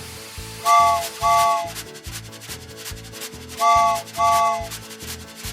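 Cartoon background music with a steady, repeating beat. Two pairs of short, high beeps cut through it, one pair about a second in and the other near four seconds.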